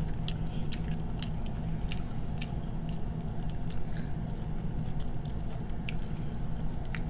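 Close chewing and mouth sounds of people eating king crab meat and shrimp, with scattered small clicks and smacks.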